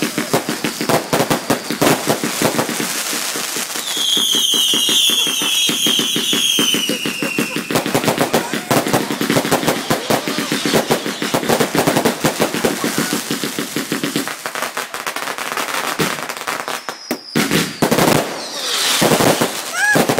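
Garden fireworks crackling and banging in rapid, dense volleys, like a barrage cake. About four seconds in, a whistling firework sounds for several seconds, falling slowly in pitch.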